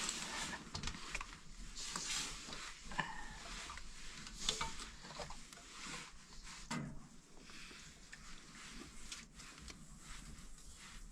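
A cooking pot being scrubbed by hand: irregular scraping and rubbing strokes with a few light knocks, busier in the first few seconds and fainter later.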